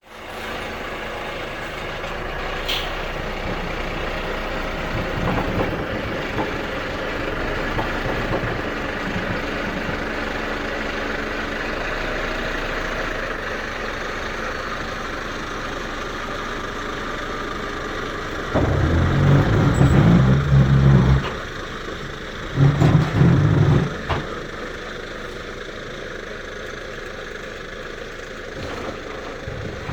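Container truck's diesel engine running steadily as the truck drives out from under the set-down containers, with two louder surges of engine noise about two-thirds of the way through.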